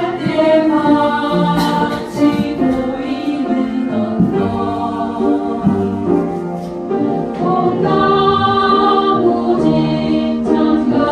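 A choir singing a slow song in two parts, with long held notes.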